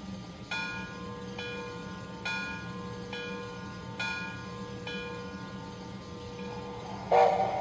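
Locomotive bell ringing from a Proto-Sound 3.0 sound system in an MTH Climax model locomotive, struck about once a second over a steady low hum. A whistle blast starts near the end.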